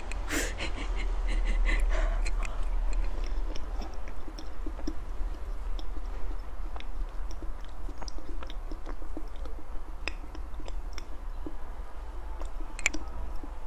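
Close-miked chewing of soft chocolate-coated cake, many small wet mouth clicks and smacks, over a steady low hum.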